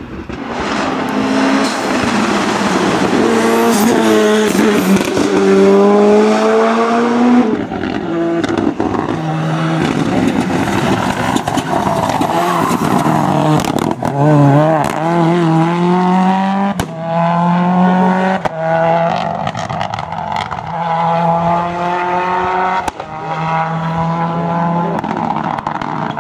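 Ford Escort rally car's turbocharged Cosworth four-cylinder engine at full throttle, its pitch climbing through gear after gear with a drop at each shift. Several sharp cracks sound in the second half.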